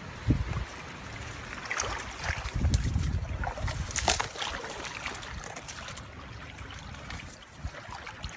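Water sloshing and splashing, with a few sharp knocks and clicks around the middle.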